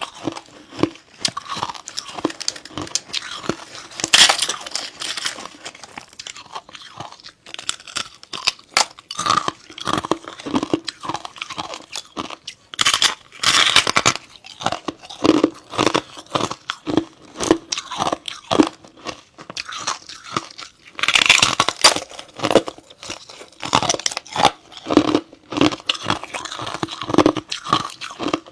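Close-up crunching and chewing of freezer frost: a steady run of crisp crunches, with louder, longer bites about 4, 13 and 21 seconds in.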